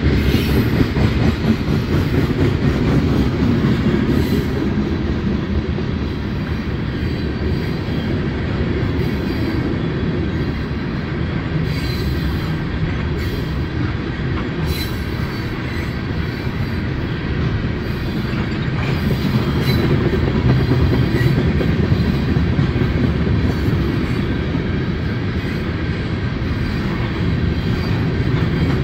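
Freight train tank cars rolling past on the rails: a steady rumble of steel wheels on track, with faint brief wheel squeals now and then.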